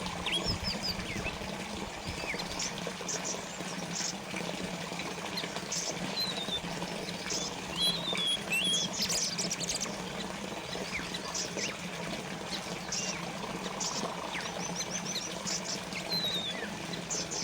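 Water trickling and splashing steadily, like a small fountain, with many short chirps and brief whistled notes of small birds scattered throughout.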